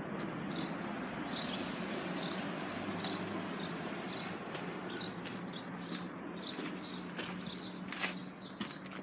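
Small birds chirping, short high chirps repeating a few times a second, over a steady low hum and background noise.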